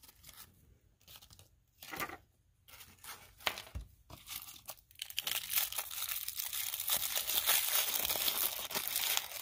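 Crinkling and tearing of a small plastic wrapper being opened by hand: scattered crinkles at first, then steady, continuous crinkling from about five seconds in.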